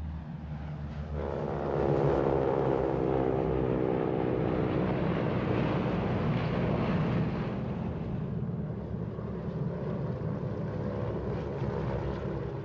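North American T-6 Harvard trainer's Pratt & Whitney R-1340 radial engine and propeller running as it flies past. It grows louder about a second in with a rising drone, stays loud for several seconds, then eases off.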